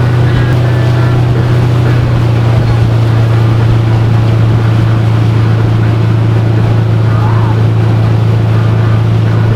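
Motorboat engine running at a steady low drone, with an even rushing hiss over it.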